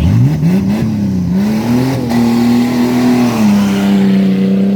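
Race truck engine revving up hard, then held at high revs with a slight wavering and a small drop in pitch near the end, loud.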